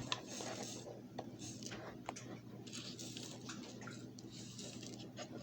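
Chocolate powder poured out of a packet into a bowl: soft hissing rustles in several short spurts, with a few faint clicks.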